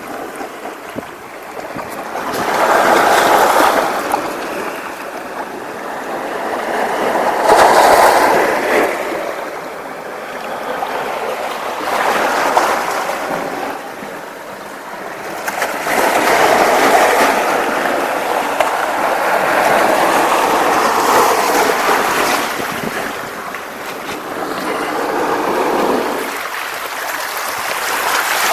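Sea waves breaking and washing up the shore, the surge swelling and fading again about every four to five seconds.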